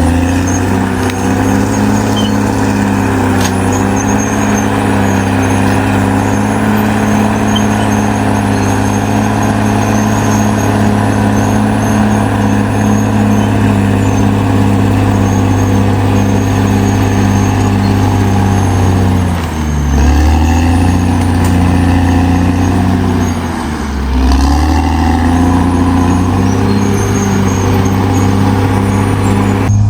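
Caterpillar D6R XL bulldozer's diesel engine running steadily under load. Its speed sags briefly twice, about two-thirds of the way through and again a few seconds later, then picks back up.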